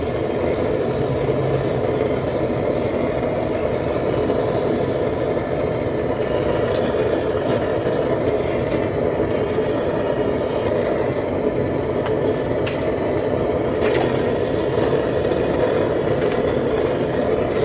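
Homemade propane-fired foundry furnace burning steadily: a constant, even rushing noise from the burner, with a few faint ticks.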